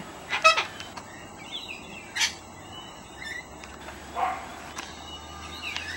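Cockatoo giving a few short calls, spaced about two seconds apart.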